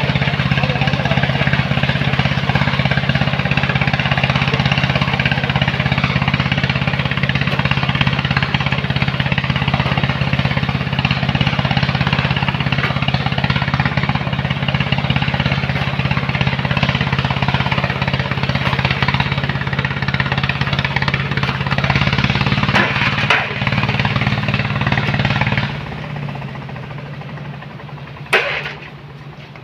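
Sand-pumping machine's engine running steadily under load with a loud rushing noise. Near the end the engine note and the rushing drop away suddenly and it goes quieter, followed by a single sharp knock.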